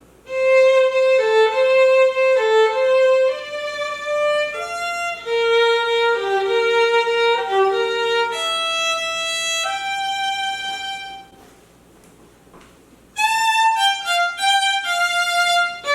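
Violin playing a slow melody of long, held notes, with a short pause a little past the middle before the playing resumes.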